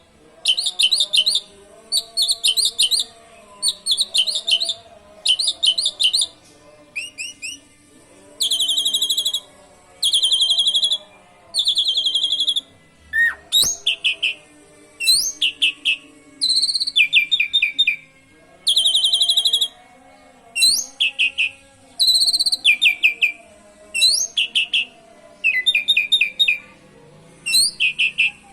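Asian pied starling (jalak suren) singing canary-like phrases: short bursts of fast, high trills repeated over and over with brief pauses between them.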